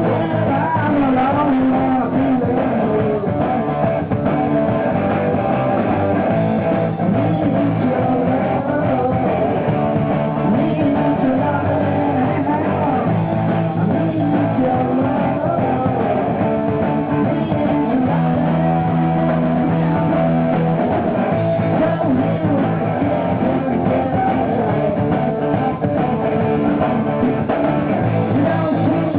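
A rock band playing live, led by guitar over a steady bass line.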